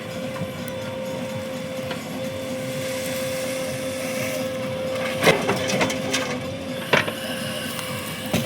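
JCB backhoe loader's diesel engine running at steady revs with a constant hydraulic whine, while it loads soil into a tractor trolley. Two sharp knocks come about five and seven seconds in.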